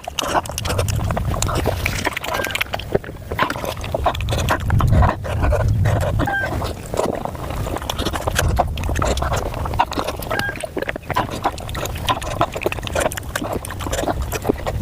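Close-miked chewing and lip-smacking while eating pork momos: a dense run of wet mouth clicks and smacks over a low rumble.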